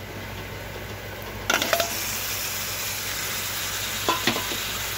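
Raw chicken mince going into a pan of hot oil and fried onion-spice masala: a low sizzle turns suddenly into loud sizzling about one and a half seconds in. There are a few short clatters of a steel spoon against the pan, once as the mince goes in and again near the end.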